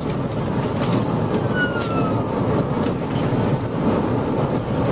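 Steady rush of road and wind noise inside a police patrol car travelling at about 110 mph, with a faint high tone sliding down about a second and a half in.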